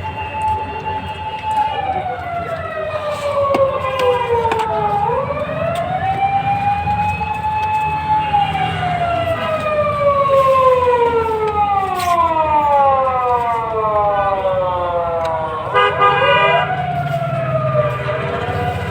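A siren wailing, its pitch holding, then sliding slowly down over a few seconds and climbing back up, several times, with a quick dip and rise near the end. A low rumble runs underneath.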